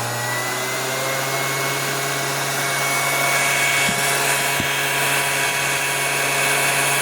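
Keystone CC-8 8mm projector's brush motor running at high speed with a steady whine of several tones that rise a little in pitch over the first second or so. It spins this fast because its drive belt is off. Two faint clicks come near the middle.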